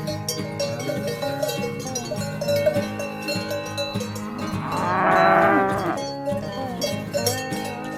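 A cow mooing: one long moo about five seconds in, the loudest sound, over the steady clanking of cowbells.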